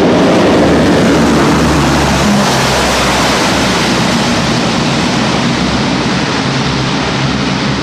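C-130 Hercules' four turboprop engines in full reverse during a maximum-effort short-field landing: a loud, steady propeller roar, loudest in the first second or so and easing slowly as the aircraft stops.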